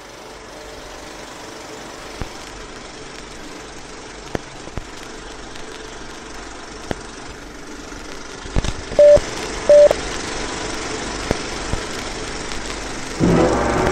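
Worn vintage film soundtrack noise: a steady hiss and low rumble that slowly grows louder, with scattered pops and clicks. Two short loud beeps at one pitch come close together about nine seconds in, and music starts right at the end.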